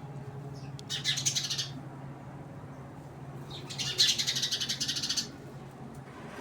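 A bird giving two harsh, rapidly pulsed chattering calls, a short one about a second in and a longer one past the middle.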